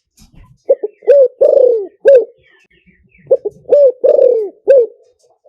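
Spotted dove cooing: two phrases of five low coos each, about two seconds apart, the fourth coo in each phrase longer and falling in pitch.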